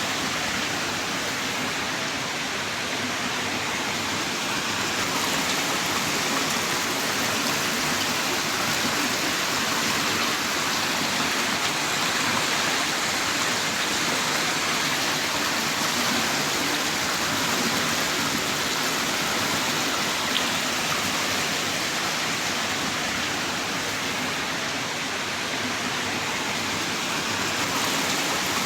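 Heavy rain downpour, a steady dense hiss of rain falling hard.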